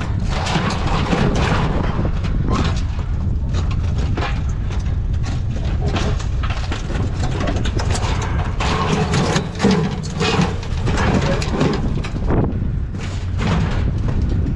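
A vehicle driving: steady low engine and road rumble with frequent knocks and rattles.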